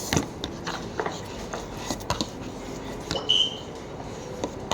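Spoon clinking and scraping against a bowl during eating, in a string of short clicks and knocks, with a brief high squeak about three seconds in.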